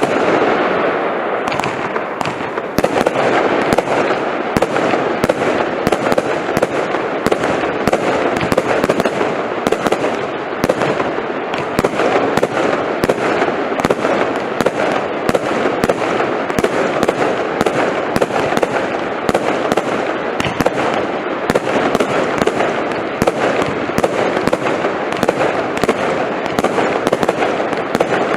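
Prestigious 'Lightning Storm' firework going off continuously: a dense, steady rush of noise with many sharp cracks, several a second, throughout.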